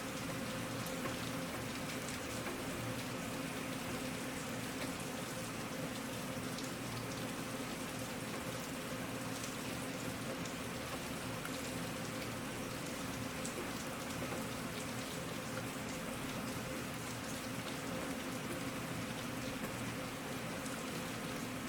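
Steady rain falling, with individual drop hits standing out now and then over an even hiss.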